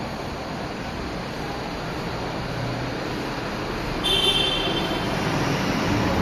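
Recife Metro train approaching the station, a steady rumble that grows louder over the last couple of seconds. About four seconds in there is a brief high-pitched tone.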